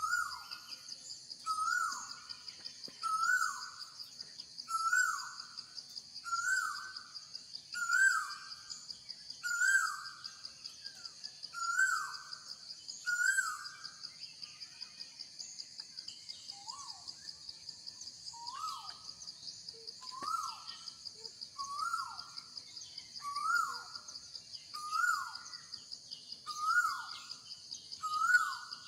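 A bird calling over and over, one short call that rises and falls about every one and a half seconds, over a steady high buzzing of insects.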